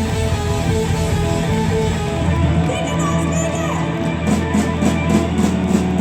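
Live blues-rock band playing, with electric guitar over bass and drums. Evenly repeated hits come in over the last couple of seconds.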